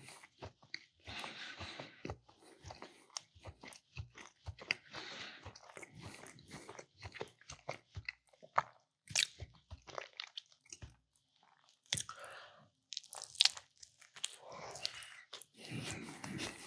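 Close-miked person chewing and biting into a meatball sub, in irregular bursts of mouth noise with many sharp clicks.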